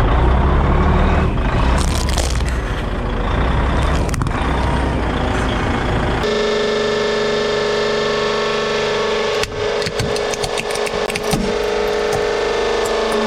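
Heavy truck's diesel engine running with a deep rumble, with a few cracks as the plastic toy truck gives way under its wheels. About six seconds in it cuts to a steady machine hum with crackling and snapping of plastic being crushed.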